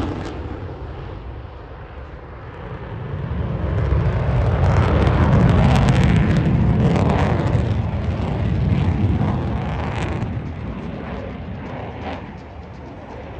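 Jet noise from an F-35A Lightning II's single Pratt & Whitney F135 turbofan, a deep rumble that swells to its loudest a few seconds in and then slowly fades.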